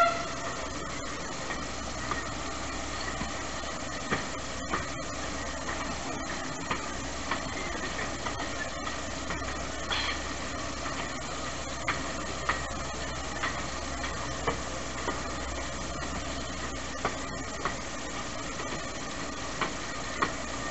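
Narrow-gauge train carriage running along the track, a steady rumble with pairs of wheel clacks over the rail joints every two or three seconds, heard from an open carriage window.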